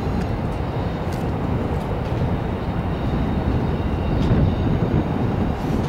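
Electric commuter train running on the tracks: a steady low rumble, with a few faint clicks and thin high tones above it.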